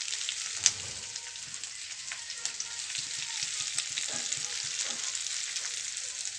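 Whole new potatoes frying in ghee in a metal kadai: a steady sizzle, while a flat metal spatula stirs and scrapes them, with scattered clicks of metal on the pan, the sharpest about a second in.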